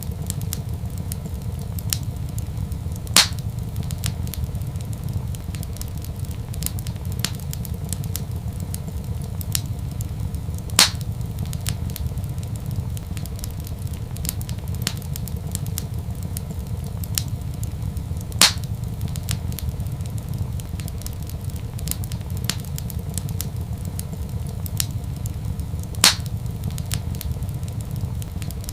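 Wood fire in a fireplace crackling, with many small ticks over a steady low rumble. Four louder sharp pops come at even spacing, about every seven and a half seconds.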